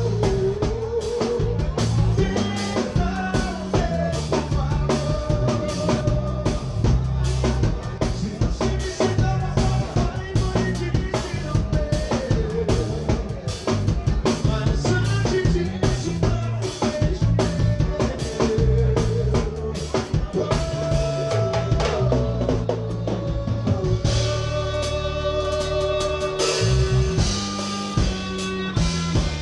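A live forró band playing an instrumental passage: drum kit with kick and snare keeping a steady beat, a heavy bass line and sustained melody notes on top.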